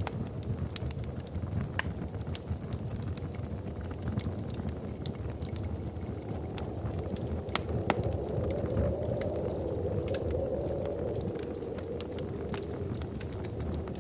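Wood fire crackling in a fireplace: scattered sharp pops and snaps over a steady low rumble of flame, with one louder pop about eight seconds in.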